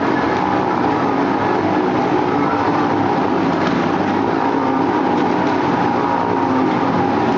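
Many motorcycle engines running together at high revs inside a steel globe-of-death cage, a dense, steady layered sound without a break.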